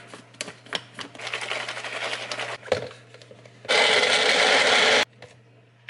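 Smoothie ingredients clattering in a blender cup, then the blender runs loudly for about a second and a half and stops abruptly.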